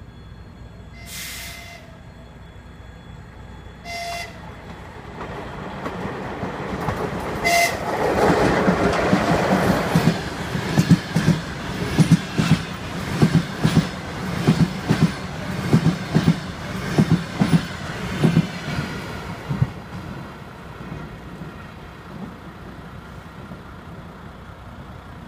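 ChS7 electric locomotive with a passenger train: three short horn blasts as it approaches, then the rush of the train passing at speed, with regular clickety-clack from the coach wheels over the rail joints, fading as it draws away.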